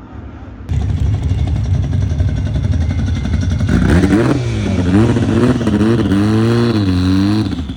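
A car engine close by, running loudly and revving up and down repeatedly in the second half. It starts abruptly about a second in.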